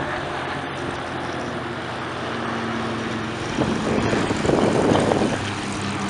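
Aircraft engine running steadily, heard through heavy wind noise on the microphone, which gusts louder in the second half.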